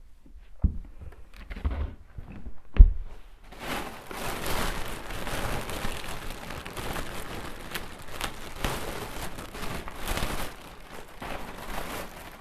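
A few knocks from handling, then about three and a half seconds in a small vacuum cleaner switches on and runs with a dense, hissing noise that wavers in level.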